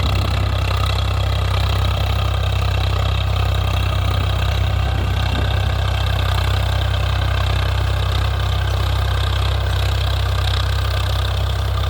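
Swaraj 855 FE tractor's three-cylinder diesel engine running steadily at an even speed, with a deep hum.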